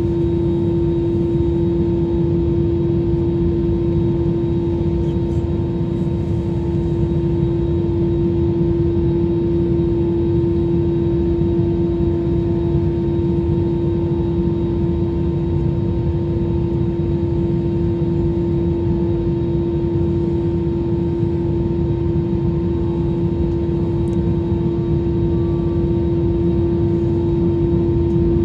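Jet airliner cabin noise: the engines run steadily with a dense low rumble and a constant hum, unchanging.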